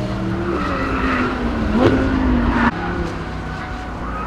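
Sports car engine running hard, its note sliding down and then climbing again, with a sharp crack about two seconds in. The sound breaks off suddenly just before three seconds, leaving a quieter, steadier engine sound.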